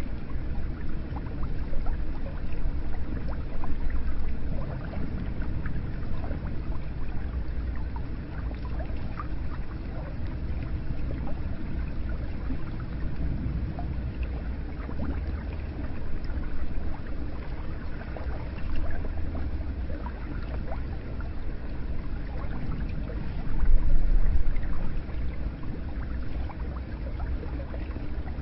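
Hot spring water pouring and splashing steadily into a bath, with a deep rumble underneath and a louder surge about 23 seconds in.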